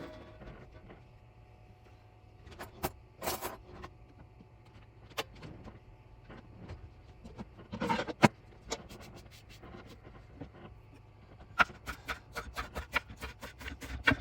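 Scattered clicks and knocks of small hard objects being handled, loudest a little past the middle, with a quick run of light clicks near the end.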